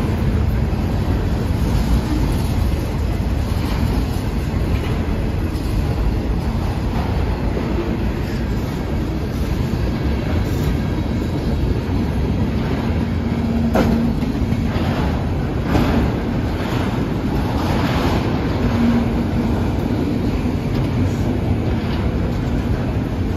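Freight train of autorack cars rolling through a grade crossing: a steady rumble and clatter of steel wheels over the rail joints, with a couple of sharp clanks about halfway through.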